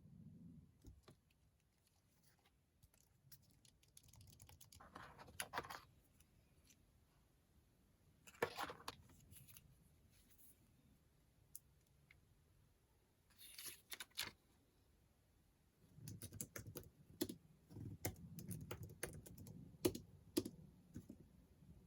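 Typing on a computer keyboard: scattered key clicks and a few soft rustles, then dense, rapid typing during the last six seconds.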